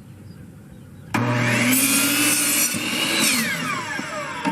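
Electric power saw starting up about a second in and cutting through a wooden board, then its whine falling in pitch as the blade spins down after the trigger is released.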